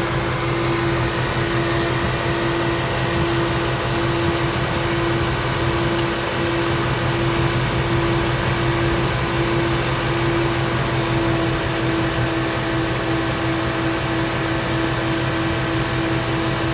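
Ford Mustang GT's 5.0-litre V8 idling steadily, with its electric radiator cooling fan running, heard from beneath the car. There is no ticking (no 'barbecue igniter' or 'typewriter' tick): the sound of a healthy engine on fresh oil.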